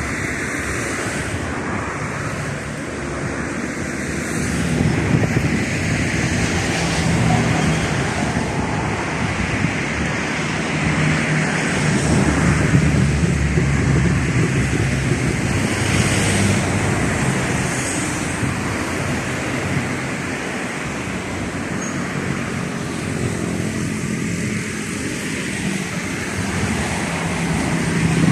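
Boeing 737-800 jet on its takeoff roll: steady engine and rushing-air noise over a low rumble, swelling and easing slightly in level.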